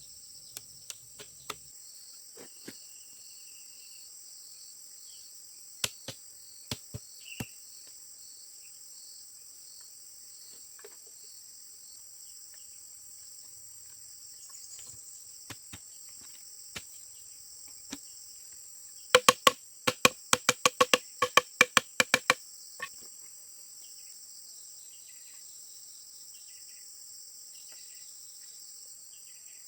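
Crickets chirring steadily, with scattered sharp knocks. About two-thirds of the way through comes a quick run of about a dozen loud, ringing hammer blows, roughly four a second, the kind made when fixing bamboo pieces together.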